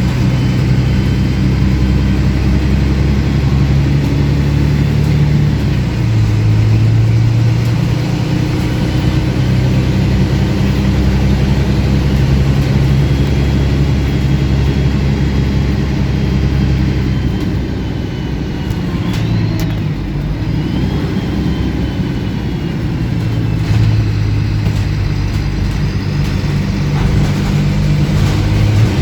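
Diesel engine of a MAN 18.220 single-deck bus running under way, its exhaust louder than usual. The engine note steps in pitch as it pulls, eases off for several seconds about two-thirds through, then picks up again.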